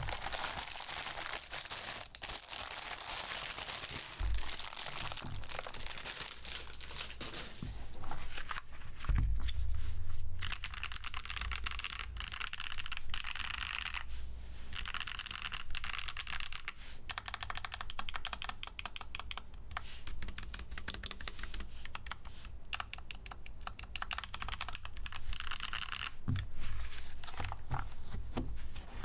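Many rapid small clicks with plastic crinkling, from a Nuphy Halo65 mechanical keyboard being handled.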